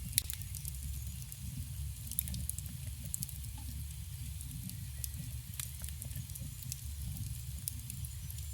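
Campfire burning with a steady low rumble and irregular sharp crackles and pops from the wood, one pop louder than the rest just after the start.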